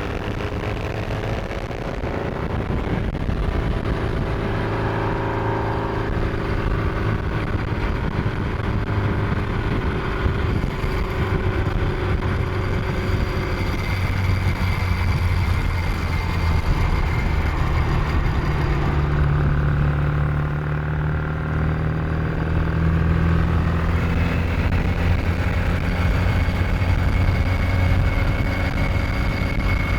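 Supercharged 1328 cc XPAG four-cylinder engine of a 1938 MG TA Special race car running under way, its engine note rising and falling in pitch as engine speed changes.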